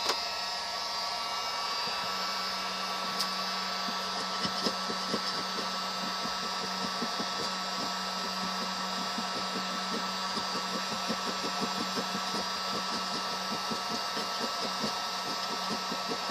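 A handheld electric hot-air blower running steadily. Light scraping ticks come in over it from about four seconds in.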